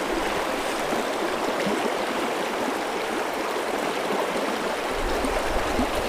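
River water rushing steadily, an even unbroken noise; a low rumble joins about five seconds in.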